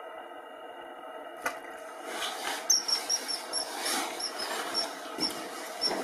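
Soft ambient music that stops about a second and a half in, giving way to outdoor natural sound: short high-pitched bird chirps repeating three or four times a second over a rustling wash, with a few dull knocks.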